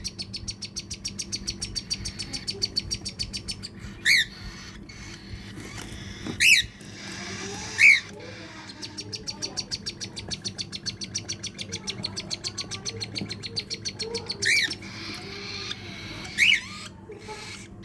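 Bird calling: a fast, steady run of high chirps, about ten a second, broken by five louder, sharp calls, one about four seconds in, two between six and eight seconds, and two near the end.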